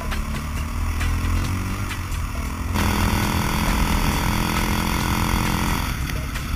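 Dirt bike engine under acceleration, its pitch rising, then a sudden louder, noisier stretch at high revs from about three seconds in until about six seconds in, when it drops back.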